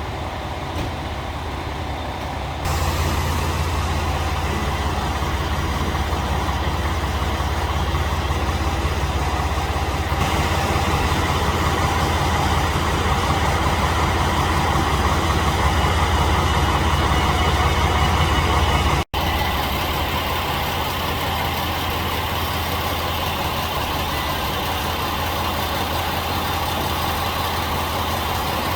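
Diesel engine of a Chizu Express HOT7000 series railcar running with the train's rolling noise, a steady low drone that steps up louder about three seconds in. The sound drops out for an instant about two-thirds of the way through.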